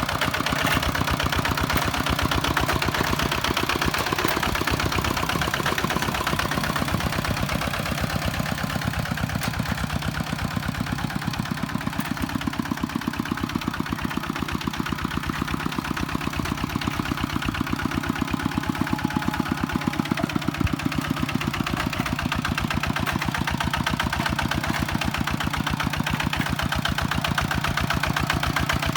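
Kubota tractor's diesel engine running steadily at an even speed, with a rapid, regular firing rhythm.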